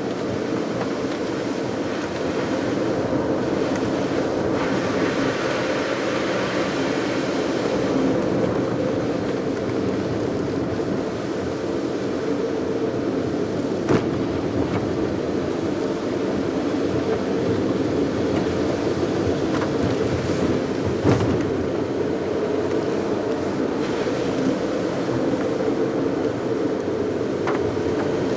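Steady road and engine noise of a car driving on a wet mountain road, with a brief hiss of tyre spray early on and two short sharp clicks midway.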